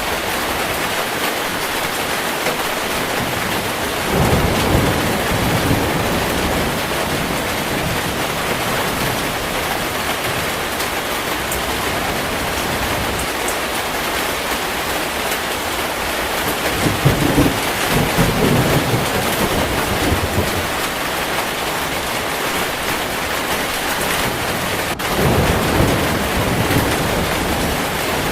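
Heavy rain falling steadily, with three low rolls of thunder: about four seconds in, midway through, and near the end.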